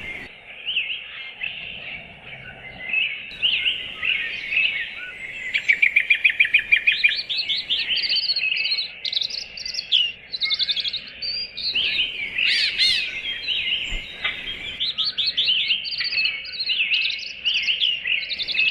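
Several small songbirds chirping and twittering over one another, with a fast run of repeated trill notes about six seconds in.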